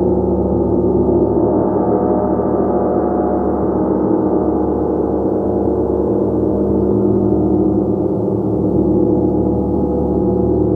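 A gong played continuously, its many overlapping tones building into a dense, steady, sustained wash with no distinct single strikes.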